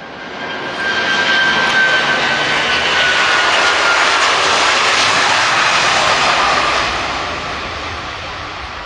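Airbus A330 twin-engine jet airliner taking off and passing by. The jet roar swells over the first second or so, stays loud, then fades from about seven seconds on, with a high whine that slowly falls in pitch.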